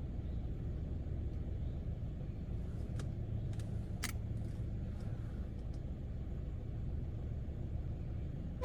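Steady low rumble heard from inside a car sitting in an automatic car wash, with two faint clicks about three and four seconds in.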